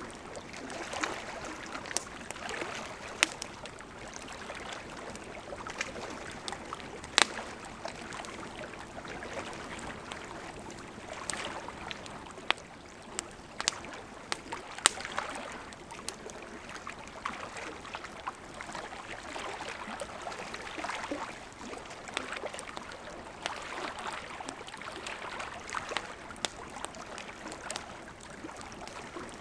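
Burning wood crackling in a campfire: a steady hiss with frequent sharp snaps and a few louder pops.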